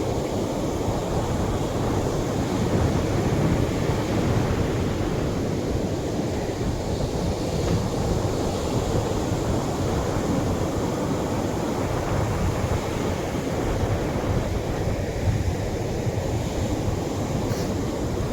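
Gentle Atlantic waves breaking and washing on a beach shore: a steady wash of surf that swells and eases every few seconds.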